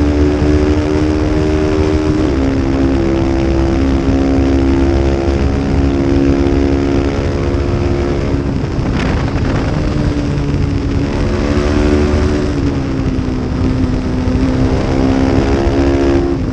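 Small-displacement racing motorcycle engine running hard at high revs, its pitch stepping with gear shifts and throttle. A short burst of noise about nine seconds in, as the engine note drops away and then climbs again.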